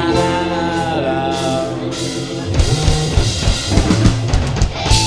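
Rock-band music: the sustained notes at the end of a sung chorus line ring out, then a steady drum-and-bass groove starts about halfway through.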